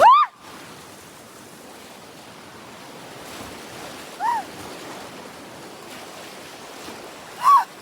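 River rapids rushing in a steady wash of water noise. A woman gives a short loud shriek at the start and two brief cries, about four seconds in and near the end.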